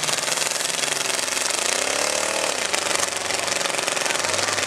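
Many demolition derby car engines running at once in a dense, rattling din. About a second and a half in, one engine revs up and falls back over about a second.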